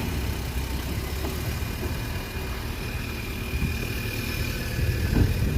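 A car engine idling steadily, a low rumble.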